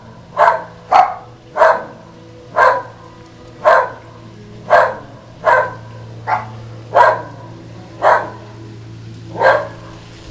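A whippet barking steadily at the Goodyear blimp overhead, about eleven sharp barks at roughly one a second, a couple of them doubled close together.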